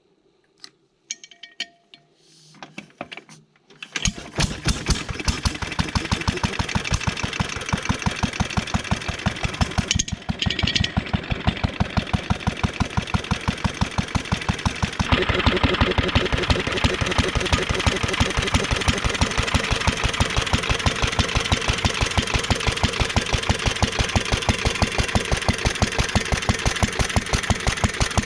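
International Harvester Model LB single-cylinder stationary engine being started: a few short knocks, then it catches about four seconds in and runs with an even, throttle-governed firing beat rather than hit-and-miss. About fifteen seconds in it gets louder and fuller.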